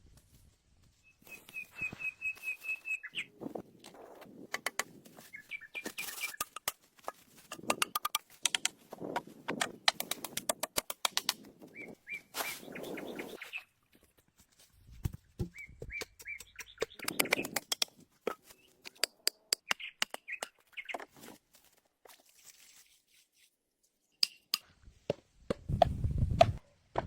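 A bird chirping in quick repeated runs of short notes, mixed with many sharp clicks and short bursts of rustling noise.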